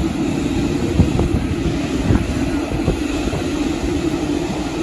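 Steady, loud vehicle rumble with a few light knocks, about one a second.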